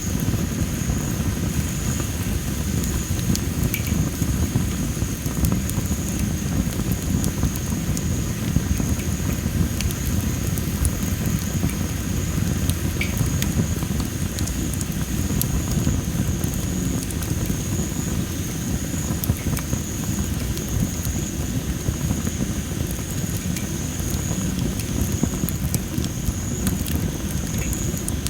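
Well-dried masaki (Japanese spindle tree) firewood burning in a campfire: scattered sharp crackles and pops over a steady low rush. A thin, steady high tone sounds behind it.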